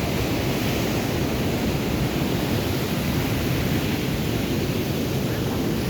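Steady rushing noise of wind and surf at a beach, even in level throughout, with no distinct wave breaks.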